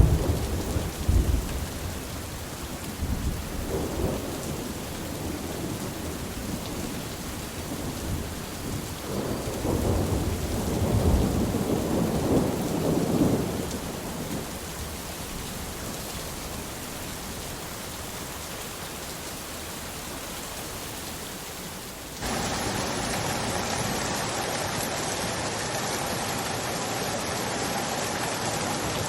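Rain falling through a thunderstorm, with thunder rolling at the start, again briefly, and in a longer roll midway. About three-quarters of the way through it cuts abruptly to a steady, slightly louder rushing hiss of water.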